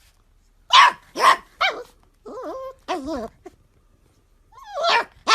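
A golden retriever puppy barks three times in quick succession, then gives two wavering, drawn-out pitched calls. Near the end it lets out another bark that rises in pitch.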